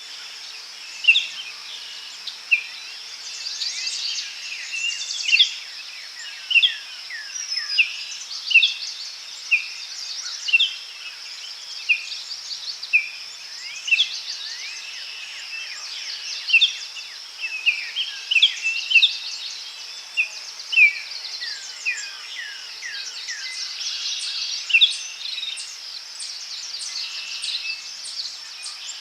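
Forest ambience: many birds chirping and calling in short, sharp notes and quick downward-sliding whistles, over a steady high-pitched drone.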